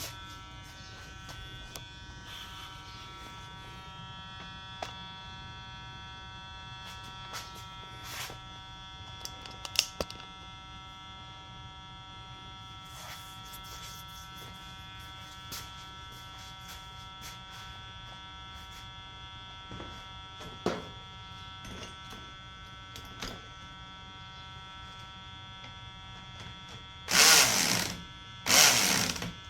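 A steady electrical buzz with scattered small clicks and knocks. Near the end come two short, loud mechanical bursts, attempts to turn over the HPI Savage's nitro engine, which is hard to start.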